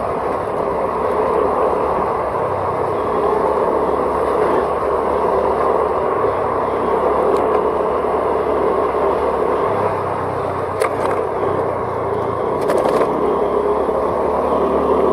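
Steady road and wind noise of a vehicle on the move, with a low engine hum underneath that shifts a little about ten seconds in. A couple of brief clicks come around eleven and thirteen seconds in.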